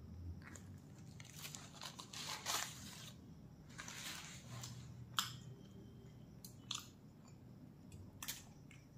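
Close-up eating sounds of a person biting into and chewing a large flatbread wrap roll. There are two bouts of crunchy chewing, then a few sharp mouth clicks.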